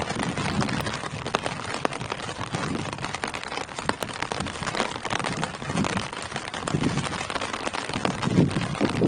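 Steady rain falling on tree leaves: a dense patter with sharper individual drop hits all through, and a deeper low sound that swells and fades every second or so.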